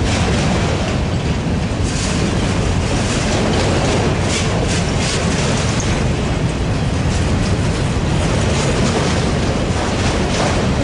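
Freight train of autorack cars rolling past: a steady rumble of steel wheels on rail, with occasional sharp clacks from the wheels.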